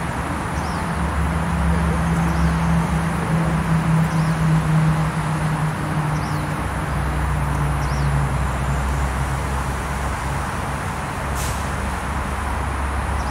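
Steady low rumble of motor traffic, with a faint hum running through it. Several faint, short, high chirps from small birds come in the first half, and a single sharp click sounds near the end.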